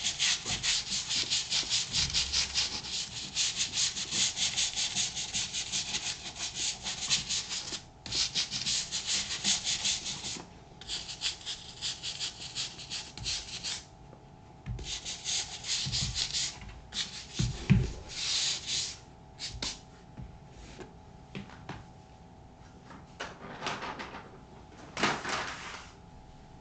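Rapid back-and-forth scrubbing strokes on the sole of a leather moc-toe boot during outsole cleaning. The scrubbing is continuous for the first ten seconds, then comes in shorter bursts with pauses, with a single knock partway through.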